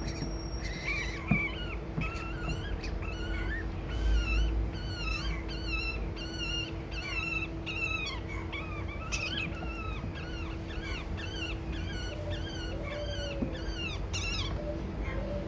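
Baby birds calling over and over in short, high chirps, several a second and overlapping, the begging cries of hungry nestlings. A steady low hum runs underneath.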